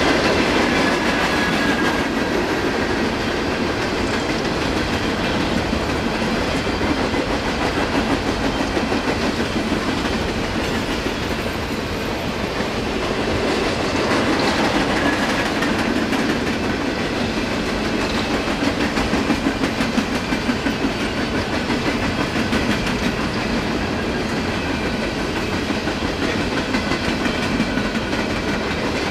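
A long train of empty coal hopper cars rolling past at steady speed, the wheels clicking over the rail joints in a continuous clickety-clack.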